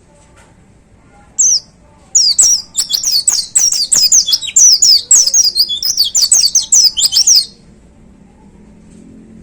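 White-eye (pleci) singing: a single high note, then a fast, loud run of short, high notes, each falling sharply in pitch, that goes on for about five seconds and stops abruptly.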